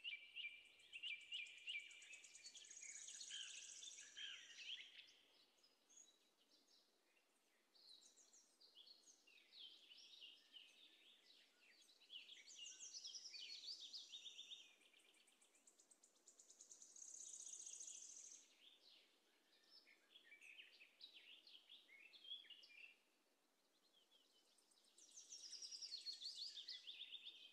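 Faint birdsong: repeated phrases of rapid, high chirps and trills, coming in bursts every few seconds.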